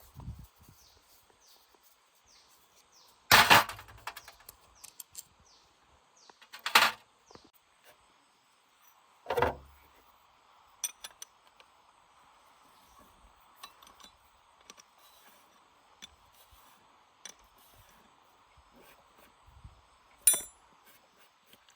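Four loud sharp knocks or clanks, three in the first ten seconds and one near the end, with lighter clicks between them over a faint steady high hum.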